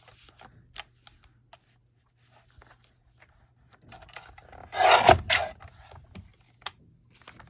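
Paper and craft materials handled on a tabletop: scattered light taps and clicks, with a louder scraping rustle about five seconds in.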